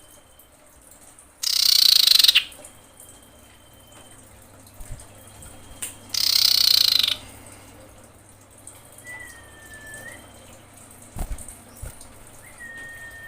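Female common iora calling: two loud, harsh hissing calls about a second long, a few seconds apart, with thin drawn-out whistles between them and two short, slightly curving whistles near the end.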